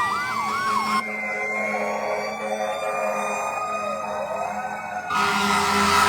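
Fire truck sirens passing: a fast electronic yelp for about the first second, then slower wails rising and falling, several overlapping. About five seconds in, a louder steady horn blast joins.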